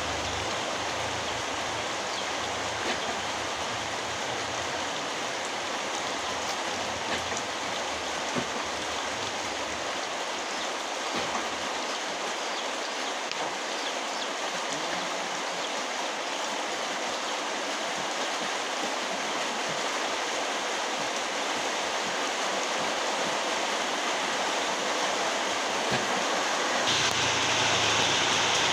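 Very heavy rain falling steadily, an even hiss with faint scattered ticks. Near the end it grows a little louder and brighter.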